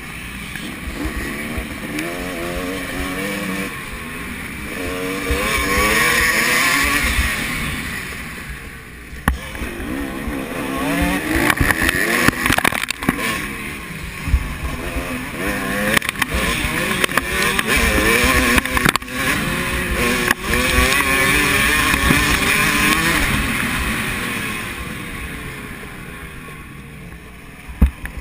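Several motocross bikes racing past, their engines revving up and down over one another, the sound swelling as they come close and fading away near the end.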